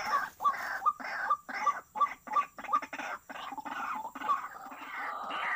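White-breasted waterhen (ruak-ruak) calling: a rapid run of harsh repeated notes, about three a second.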